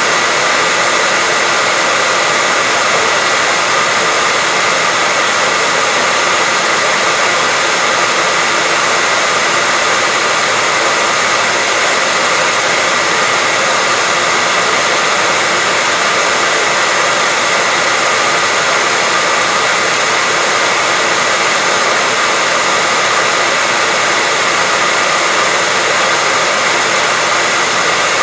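Electric hair dryer running steadily, a constant rushing blow with a faint whine, played as white noise to lull a baby to sleep.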